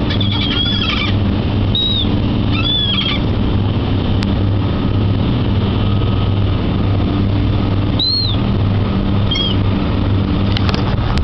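Seagulls giving short, high, arched cries: several in the first three seconds, then two more later on. Under them runs a steady, low engine hum.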